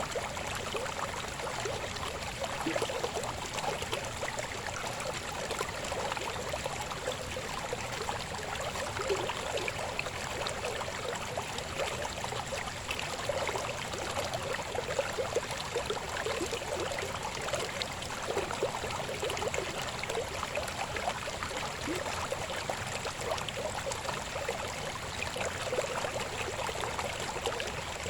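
Babbling river flowing steadily: a continuous rush of water dotted with many small gurgles.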